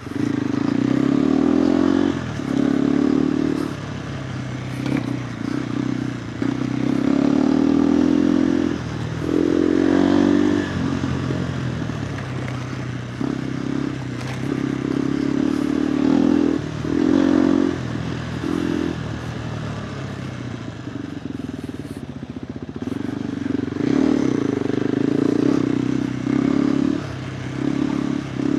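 KTM 390 Adventure R's single-cylinder engine through a Norifumi Whoops stainless slip-on exhaust, under off-road riding. It comes in repeated bursts of throttle of one to three seconds, dropping back to low revs between them.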